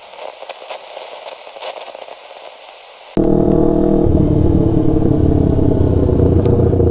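A faint crackling hiss, then about three seconds in a sudden cut to the loud, steady running of a Yamaha R3's parallel-twin engine through an Akrapovic full-system exhaust while the bike is ridden.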